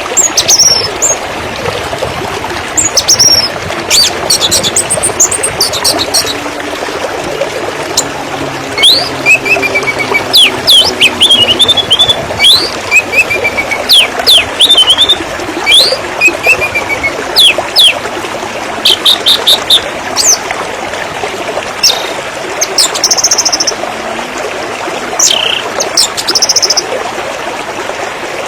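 Steady rush of a waterfall with small songbirds chirping and calling over it, in quick repeated sweeping notes that are louder than the water.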